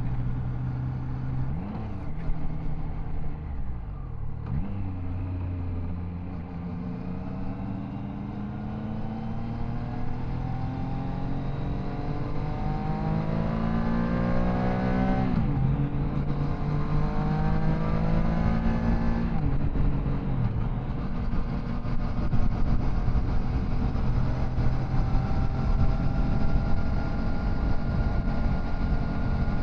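Triumph Tiger Sport 660's three-cylinder engine pulling hard under acceleration, its pitch climbing through the revs. There are two sudden drops in pitch about halfway through, as on upshifts, and then it settles into a steadier cruise.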